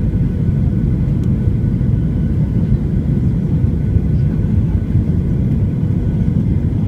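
Boeing 737-800 cabin noise in flight: the CFM56 turbofans and airflow make a steady, loud low rumble with faint steady tones above it.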